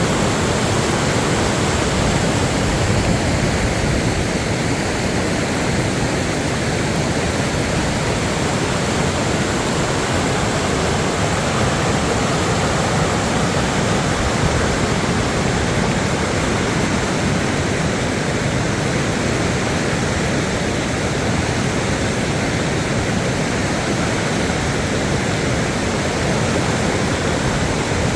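Steady, unbroken rush of floodwater after heavy rain.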